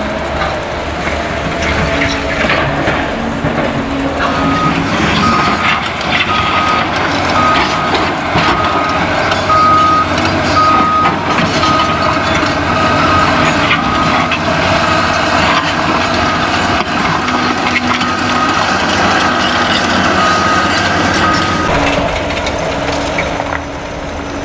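Caterpillar excavators at work on demolition, with diesel engines running and steady clatter and knocking of rubble. A back-up alarm beeps at an even pace, a little faster than once a second, from about four seconds in until a few seconds before the end.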